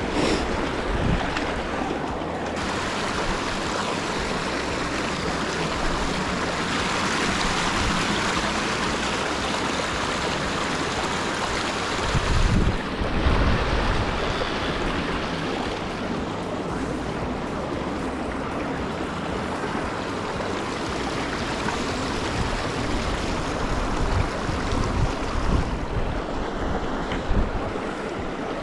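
Mountain stream water rushing steadily, with strong wind gusts buffeting the microphone, the heaviest about halfway through.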